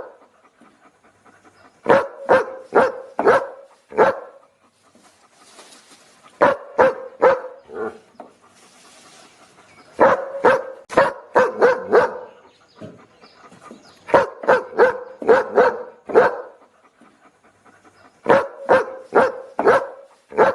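A dog barking in quick runs of about five barks each, with pauses of a couple of seconds between runs.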